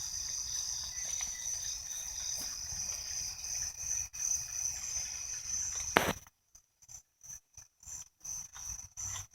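Night insects trilling steadily at a high pitch, over a low rumble. About six seconds in a sharp knock is heard, and after it the insect sound keeps cutting in and out.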